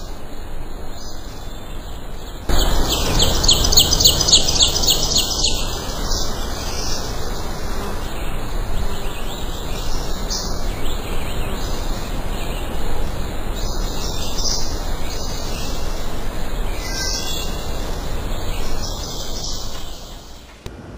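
Small birds chirping and twittering over a steady rushing background noise, with a quick run of rising chirps about three seconds in.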